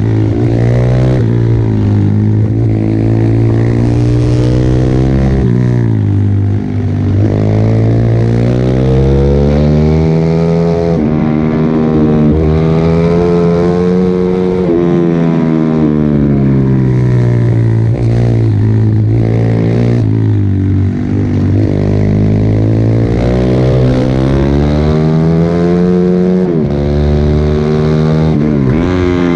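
Pit bike's small single-cylinder engine running hard around a track. Its pitch climbs under acceleration and falls off again over and over, with a few sharp drops between pulls.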